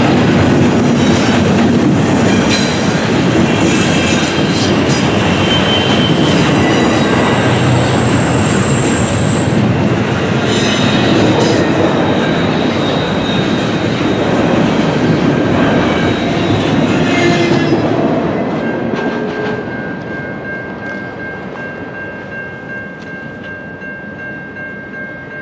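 Intermodal freight cars rolling past on the rails: a loud, dense rumble and rattle of wheels and couplers with thin, high wheel squeals. The sound falls off about three-quarters of the way through, leaving a quieter rolling noise.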